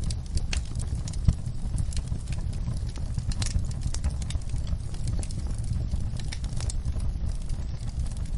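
Wood fire crackling, with frequent sharp pops and snaps over a steady low rumble and the patter of rain.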